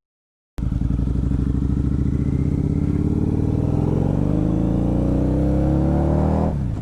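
Harley-Davidson V-Rod motorcycle engine accelerating, heard through a microphone inside the rider's helmet. It starts abruptly after a short silence, climbs steadily in pitch for about six seconds, then falls sharply near the end as it shifts up a gear.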